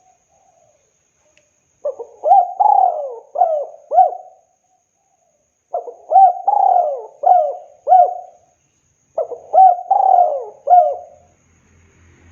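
Spotted dove (tekukur) cooing: three phrases of several coos each, with a pause of a second or two between phrases.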